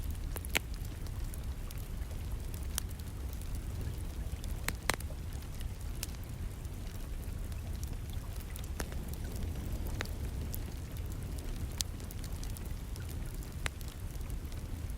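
Wood fire in a fireplace crackling, with sharp pops every second or two over a steady low rumble, mixed with the steady hiss of distant rain.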